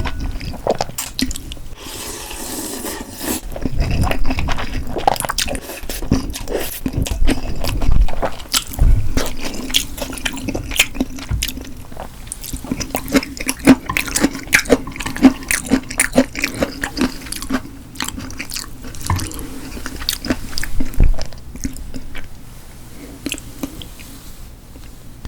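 Close-miked eating: chewing and wet mouth sounds in quick crackly clicks, with a longer wet, noisy sound about two seconds in.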